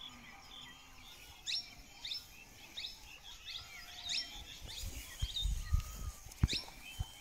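Small birds calling: a run of short, sharp, high chirps, one every half second or so. A few dull low thumps come later, with a single sharp knock near the end.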